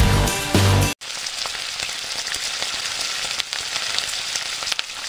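Background music with a beat for about the first second, cutting off abruptly. Then food frying: a steady sizzle with many small crackles.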